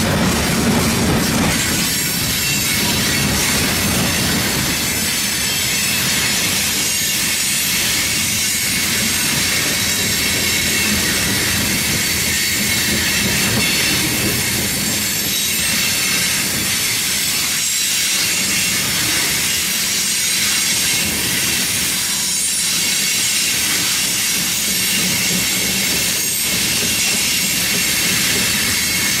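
Freight train tank cars rolling past close by: a steady rumble and rattle of steel wheels on rail, with wheel squeal and an occasional clack of wheels over rail joints.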